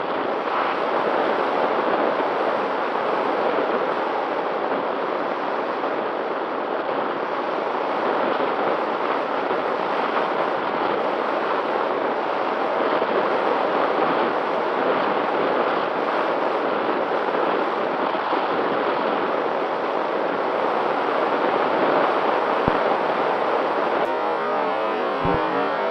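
Steady rush of wind on the microphone with a faint steady hum under it, on a very windy day; near the end it gives way to music.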